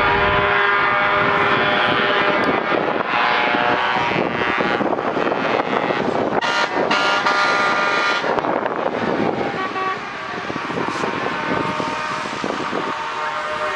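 Trucks' horns sounding over running engines, several horn tones overlapping for the first half, then giving way to engine and road noise.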